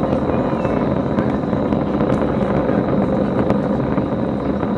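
Distant rumble of a SpaceX Falcon 9 first stage's nine Merlin engines climbing out, a steady heavy roar with scattered sharp crackles.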